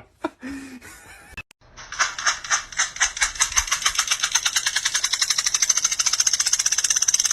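A rapid, even rattling, made of many short strokes that speed up to about ten a second, starting about two seconds in.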